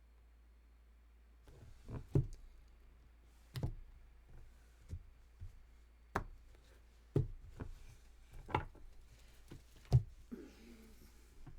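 Irregular knocks and taps on a hard surface, about ten over some nine seconds, starting about a second and a half in, with the sharpest near the start and near the end.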